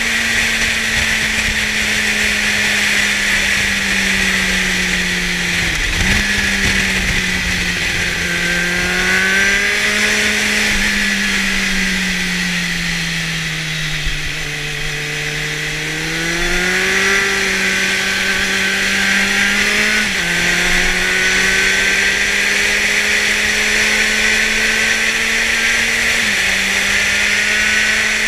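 2004 Kawasaki Z750's inline-four engine with a LeoVince aftermarket exhaust, heard while riding over a steady rush of wind. The engine note holds mostly steady, with a sudden brief drop about six seconds in. It then eases off and falls in pitch toward the middle, picks up again, and steps down twice more later on, like gear changes.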